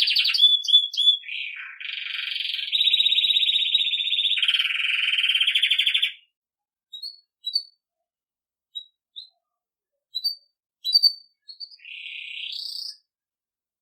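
Belgian canary singing its campainha (bell) song: long rolling trills for about six seconds, then scattered short high chirps and a brief rising trill near the end. This is a tutor song for teaching young canaries.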